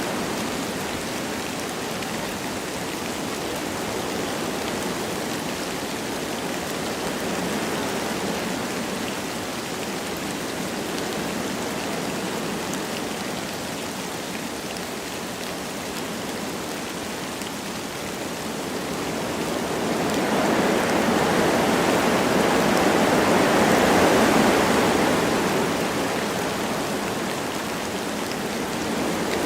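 Wind blowing through forest trees with light rain falling, a steady rushing that swells louder for a few seconds about two-thirds of the way in, then eases.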